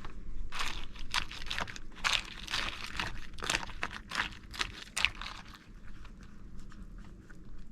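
Crunching and crinkling of an MRE meal pouch with crunchy corn nuggets, a quick run of sharp crackles for the first five seconds or so, then fewer and quieter ones.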